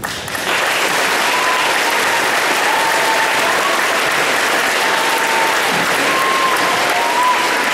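A large audience applauding, starting abruptly and holding steady.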